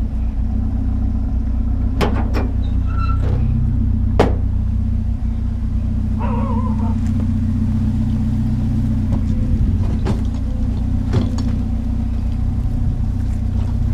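Vehicle engine idling steadily, with a few sharp knocks and bangs over it.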